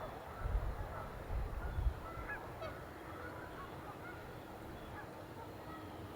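Geese honking in short, scattered calls, over a low rumble of wind that dies down about two seconds in.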